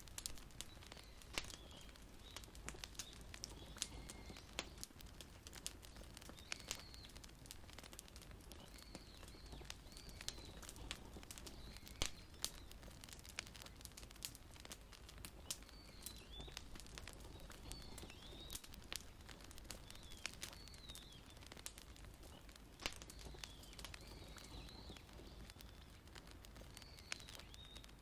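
Wood fire crackling faintly with irregular sharp pops, while a bird calls over and over with short high chirps.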